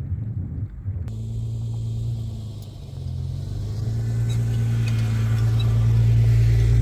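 Gusty wind rumble on the microphone for about the first second, then a motor vehicle's engine running with a steady low hum that grows louder over the last few seconds.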